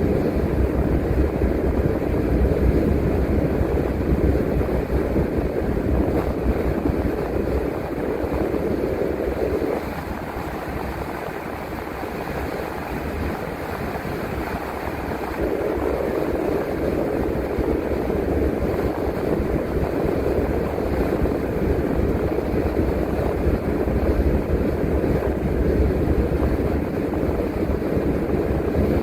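A bus driving along the road, heard from the driver's seat: steady engine and road rumble that eases a little for a few seconds about a third of the way in, then picks back up.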